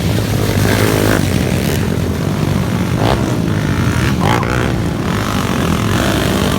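Underbone motorcycle engines running steadily at race pace, a loud continuous drone.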